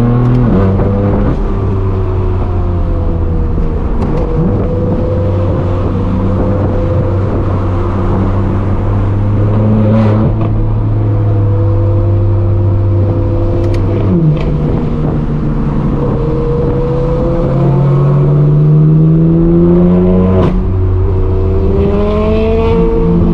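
Exhaust of a straight-piped BMW M4 F82's twin-turbo inline-six under way, loud and steady. The engine note drops sharply about half a second in and again about fourteen seconds in, climbs steadily for several seconds, then drops sharply again just after twenty seconds.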